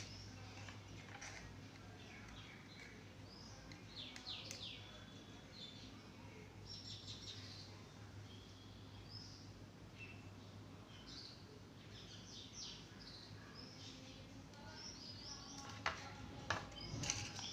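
Faint, scattered bird chirps over a steady low electrical hum.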